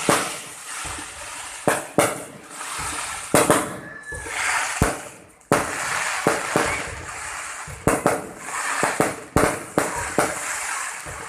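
Aerial fireworks display: a dozen or so sharp bangs of shells bursting at irregular intervals, over a steady crackling hiss.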